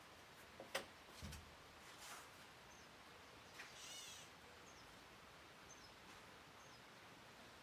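Near silence: faint background hiss with a few light clicks and a soft low thump in the first second and a half, then a brief high call and several faint, short high chirps, as of birds.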